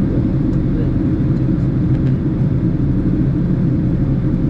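Steady low roar inside the cabin of a Boeing 767 airliner in flight: engine and airflow noise, with a faint steady hum above it.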